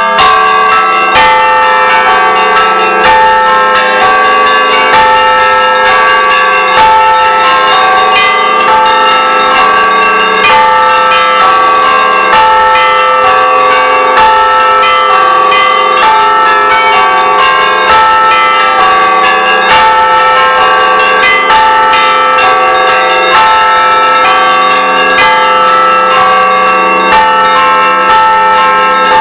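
Church bells ringing continuously, many bells struck in quick succession with their tones overlapping and sustaining.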